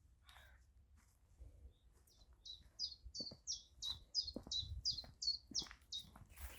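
A small songbird sings a run of about a dozen short, high, falling notes, about three a second, starting about two seconds in. A crow caws once just after the start.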